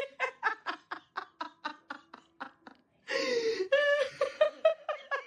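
A person laughing in a fast run of short 'ha-ha' bursts, about five a second, that fade over the first three seconds, then a louder drawn-out voiced sound and another run of laughter.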